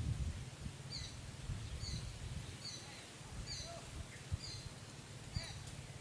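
A bird repeats a short, high, falling call about once a second, seven times in all. Underneath is a low rustling rumble with a couple of soft snaps as a water buffalo crops grass.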